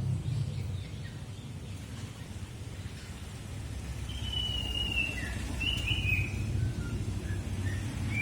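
Common iora (cipoh) singing a few short whistled phrases, starting about halfway through, over a steady low rumble.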